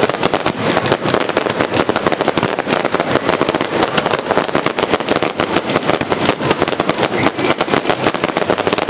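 Fireworks crackling in a fast, unbroken string of sharp cracks, many each second.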